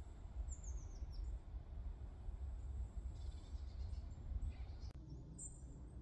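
Forest ambience: a few faint, short, falling bird chirps about half a second in, over a steady low rumble. The sound changes abruptly about five seconds in.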